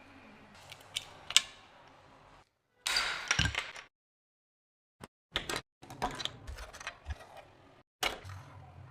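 Handling and working on a small rusty metal toy car: sharp clicks and scraping of parts in short snippets that start and stop abruptly.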